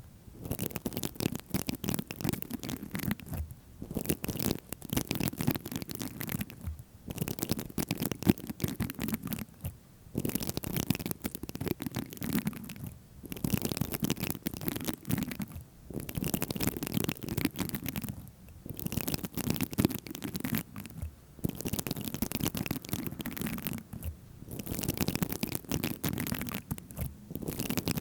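Close-miked ASMR scratching and tapping on an object: dense, rapid scratchy clicks in passes of two to three seconds, broken by short pauses about every three seconds.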